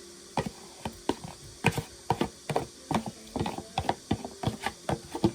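A cooking utensil clicking and tapping against a pot in quick, irregular strokes, about three or four a second, while ingredients are put back in and stirred.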